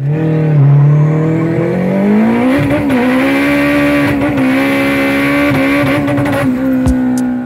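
Car engine revving up over about two seconds, then held at a high, steady pitch with small dips before easing off near the end.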